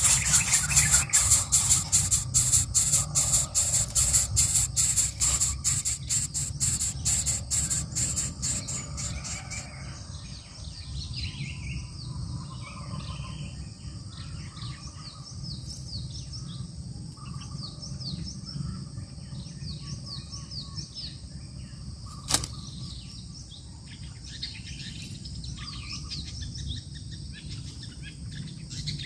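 Birds chirping faintly in short calls. For the first ten seconds a rapid, pulsing buzz dominates and fades away, and a steady high whine runs underneath; one sharp click comes about 22 seconds in.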